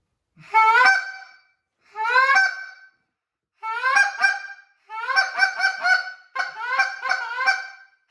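Canada goose call blown by hand: two drawn-out honks that break upward in pitch, then fast runs of short clucking honks, several a second.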